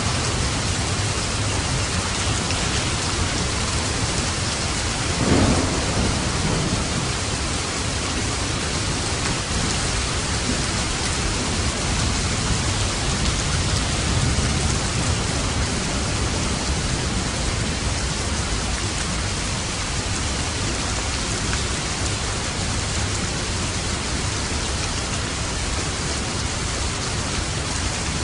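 Steady heavy rain falling, with a low rumble of thunder swelling about five seconds in and a softer rumble around the middle.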